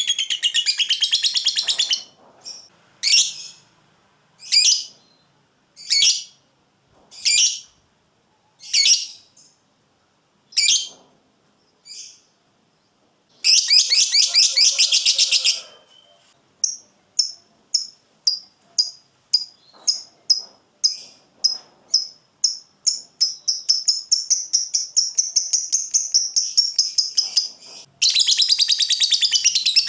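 Lovebird ngekek: a fast, high chattering trill, then a run of single sharp chirps about every second and a half, a second short trill, and repeated chirps that speed up into a long unbroken trill before the full chatter returns near the end.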